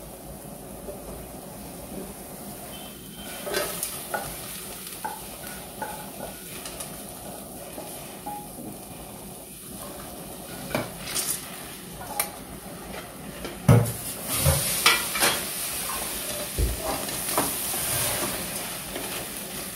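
Sliced bitter gourd dry-frying in a kadai without oil, sizzling as its water cooks off. A wooden spatula scrapes and knocks against the pan, and the knocks are loudest about two-thirds of the way through.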